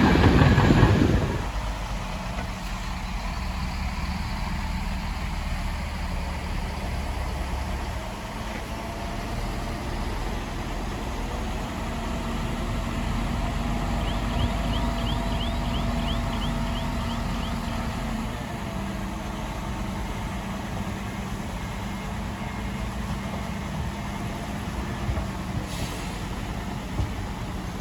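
Heavy diesel earthmoving machinery running steadily, loudest in the first second and then settling to an even hum that shifts in pitch a couple of times. A short run of faint high squeaks comes about halfway through.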